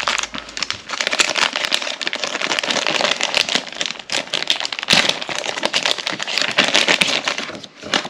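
Packaging crinkling and rustling as it is handled, a dense run of crackles that stops shortly before the end.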